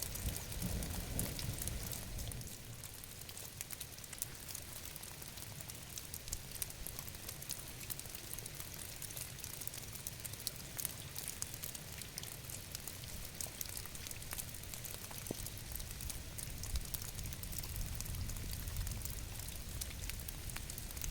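Steady rain, a continuous hiss peppered with many small drop ticks. A low rumble lies under it for the first couple of seconds.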